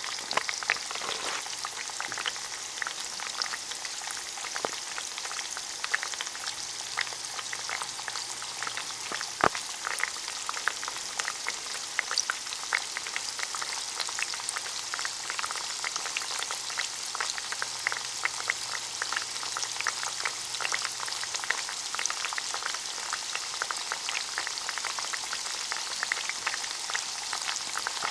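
Sweet potato fries frying in hot canola oil: a steady sizzle with constant small pops and crackles, and one sharper pop about a third of the way in.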